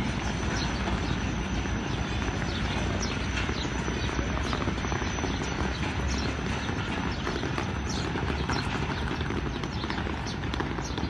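Departing diesel-hauled passenger train pulling away from the platform: a steady rumble with frequent light, irregular clacks and clicks.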